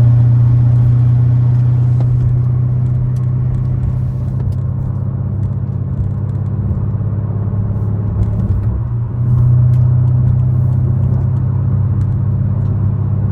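Exhaust of a 2013 BMW 550i's twin-turbo V8, fitted with catless downpipes, an H-pipe and a muffler delete, running at a steady low hum while the car is driven. It eases off a little after a couple of seconds and grows louder again about nine seconds in.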